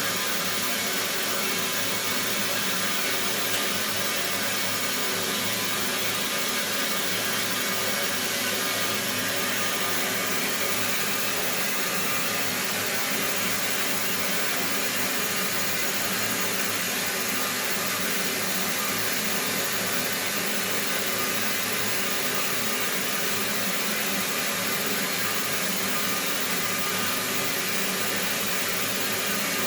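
Steady, even rushing noise that holds at one level throughout, with a faint low hum underneath.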